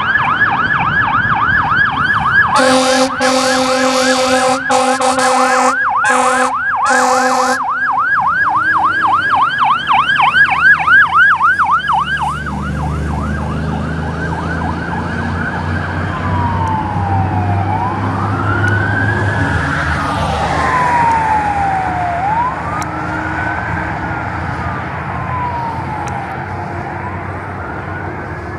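Fire engine's electronic siren on a fast yelp, with several loud air-horn blasts over it about three to seven seconds in. About twelve seconds in, the truck's low engine rumble comes up and the siren switches to a slow wail, which grows slightly fainter near the end.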